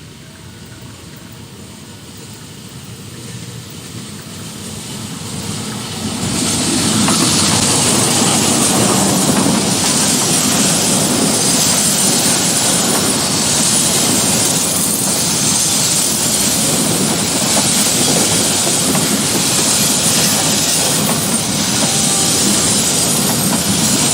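Train approaching and passing close at speed: its noise builds over about six seconds, then holds as a loud steady rush of wheels on rails with a faint regular clatter.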